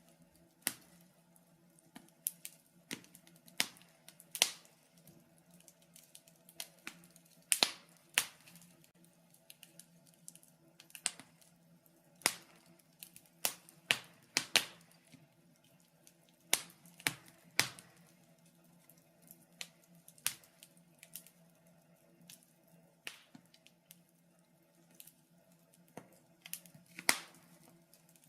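Fire in a fireplace crackling: irregular sharp pops and snaps, about one or two a second, over a faint steady low hum.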